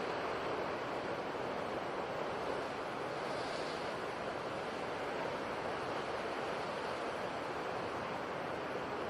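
Sea surf: a steady wash of waves with no single wave crash standing out.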